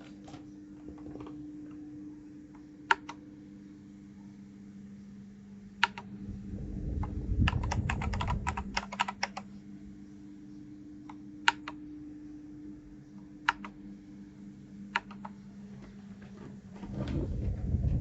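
Keys being pressed on a 1st Player DK 5.0 mechanical keyboard: scattered single keystrokes, with a quick run of keystrokes about eight seconds in, over a steady low hum. A low rumble of handling comes with the run and again near the end.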